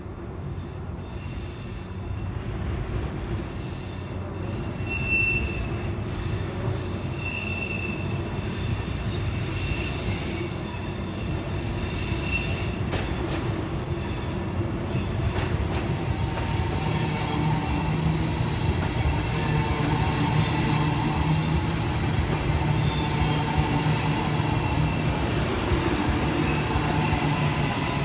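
A train's rumble growing gradually louder as it approaches, with short high-pitched squeals from the wheels in the first half and a steady hum joining from just past halfway.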